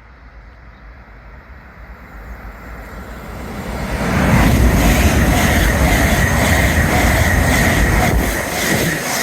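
A train passing through the station at speed, growing louder and then running loud for about five seconds with a steady high whine over the rumble of the wheels on the rails.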